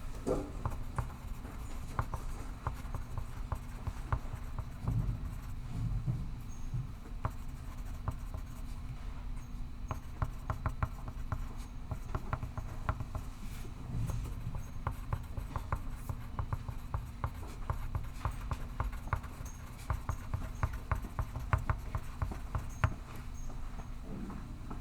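Pencil writing on paper: quick, irregular scratching strokes, over a steady low hum.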